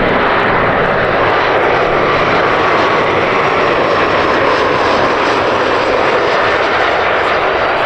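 Jet airliner's engines at close range: a loud, steady rushing roar with a faint whine on top.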